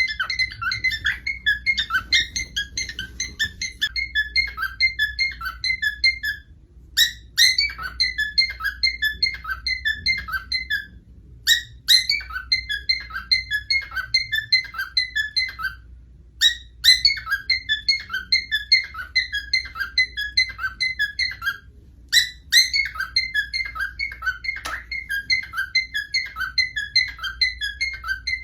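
Pet parrot whistling and chirping in fast runs of short high notes, about five a second. The runs come in repeated phrases of four to five seconds, each opening with a sharp high note, with brief pauses between.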